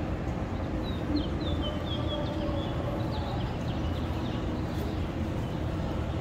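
A small bird chirping, a quick run of about a dozen short high notes lasting a couple of seconds, over a steady low background rumble.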